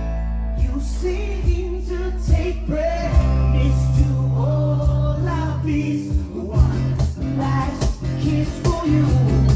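Live acoustic rock band: strummed acoustic guitars and bass under a sung lead vocal.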